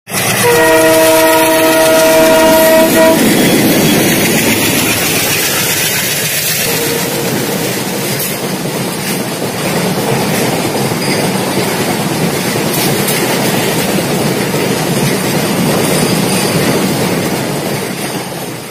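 Indian Railways freight train locomotive sounding its horn, a chord of several steady tones held for about three seconds. Then the loud, steady rumble and wheel clatter of the train passing close by.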